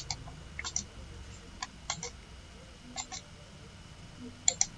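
Sparse computer clicks, short sharp clicks in small groups of one to three, spaced roughly a second apart, over a faint low hum.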